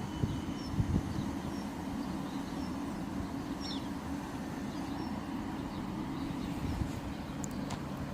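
Steady low hum of a Thameslink Class 700 electric multiple unit standing at the platform, with a few faint bird chirps.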